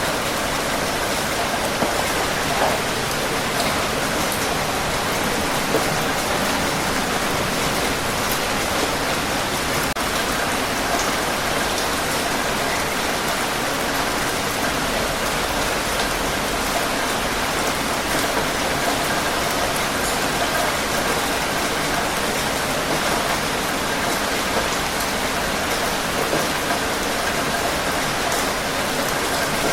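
Steady heavy rain falling, a dense even hiss with scattered drop ticks.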